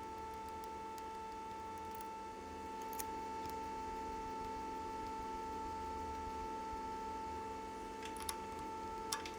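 A small machine tool motor running steadily with an even whine, with a few light clicks of metalwork about three seconds in and near the end.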